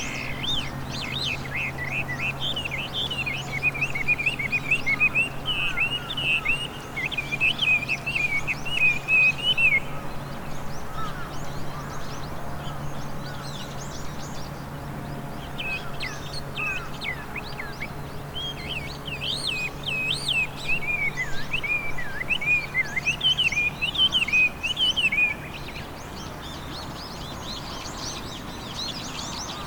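Chinese hwamei (laughing thrush) singing its loud, varied whistled song in two long bouts of about ten seconds each, with a pause of several seconds between them.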